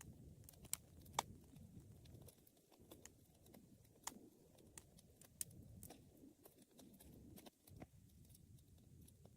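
Wood fire burning in a fireplace: a soft low rumble of flames with frequent sharp crackles and pops, the loudest two about a second in.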